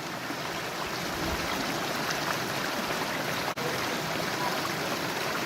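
Stream water running steadily over the rocks in its bed, an even rushing with no breaks; the sound cuts out for an instant about three and a half seconds in.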